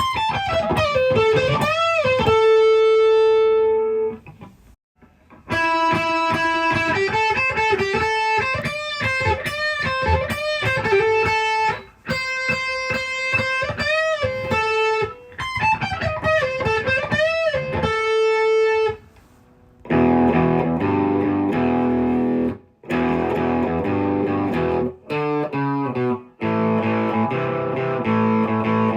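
Gretsch electric guitar played through an amplifier close-miked with an SM57, recorded raw: single-note lead phrases with string bends, then chords from about two-thirds of the way in.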